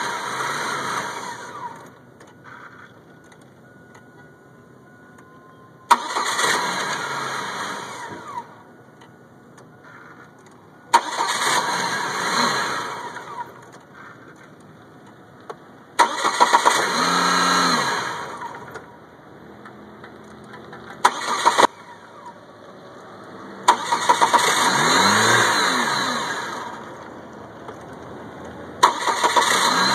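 1998 Chevy Cavalier's starter cranking the engine in about six separate attempts, each lasting a couple of seconds with pauses between them. It is a no-start: the car only starts in hot weather.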